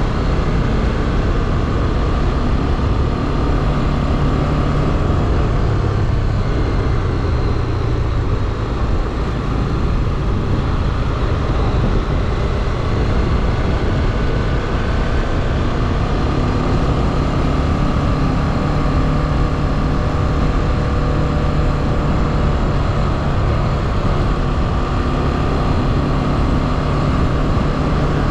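Motorcycle engine running steadily under way, its pitch drifting only a little, with road noise around it.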